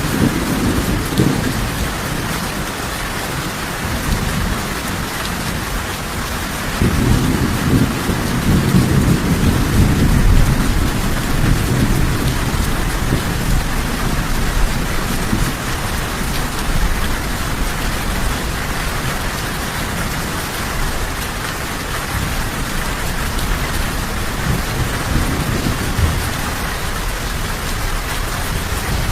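Steady heavy rain, with low thunder rumbling underneath that swells up three times, loudest from about 7 to 12 seconds in.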